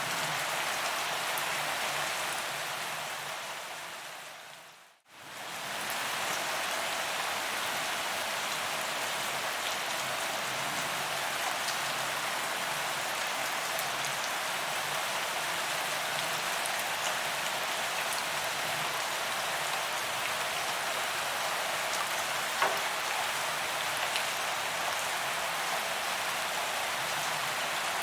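Steady rain falling on pavement, an even hiss of drops hitting the ground. About five seconds in it fades out to silence and swells back over a couple of seconds, like a loop join, and one sharper drop ticks about two-thirds of the way through.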